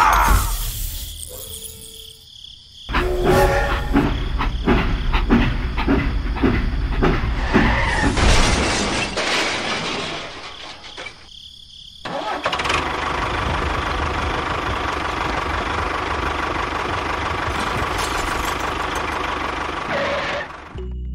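Mini toy tractor's motor running. There is a stretch of rapid rattling clicks, a short drop-off about eleven seconds in, then a steady, even run.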